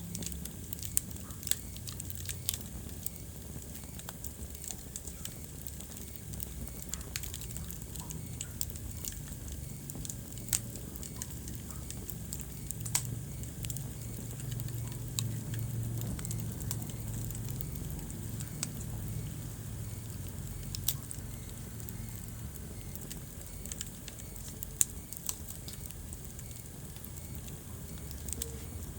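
Wood fire burning in a fireplace: scattered sharp crackles and pops over a low, steady rumble of flames.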